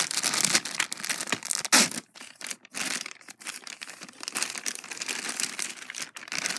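Toy packaging being handled and torn open to free a Safari Ltd figure: crinkly rustling in quick, irregular bursts, the loudest a little under two seconds in.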